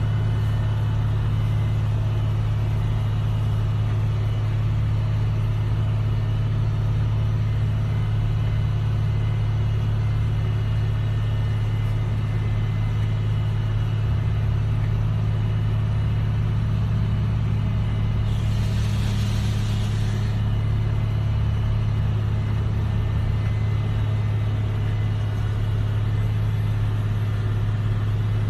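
Steady low mechanical rumble of machinery on an airport apron, with a brief hiss about two-thirds of the way through.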